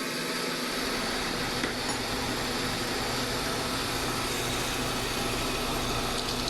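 2005 Honda Civic engine idling steadily, a constant even hum.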